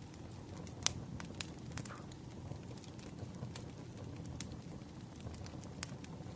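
Firewood burning and crackling, with irregular sharp pops, the loudest about a second in, over a steady low rumble.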